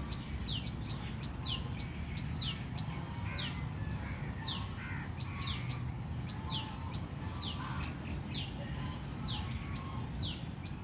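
Tailorbird calling over and over, each call a sharp high note that falls steeply, about once a second, with short high chips in between. A steady low rumble runs underneath.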